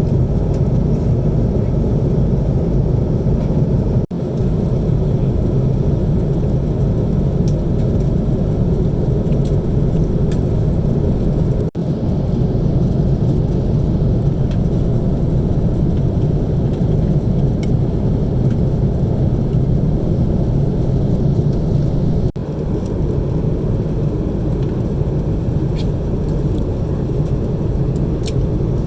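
Steady low rumble of Airbus A330-300 cabin noise heard from an economy seat: engines and airflow. It dips out briefly three times, at about 4, 12 and 22 seconds in.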